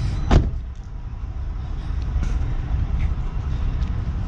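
Steady low rumble of vehicle noise, with one short, sharp thump about a third of a second in.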